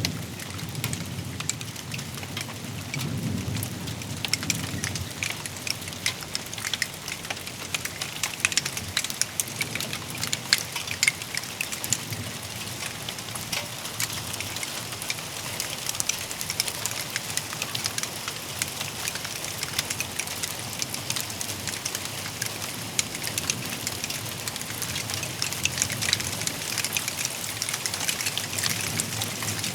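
Steady heavy rain from a thunderstorm, with many fine drop ticks on surfaces. A low thunder rumble dies away in the first few seconds.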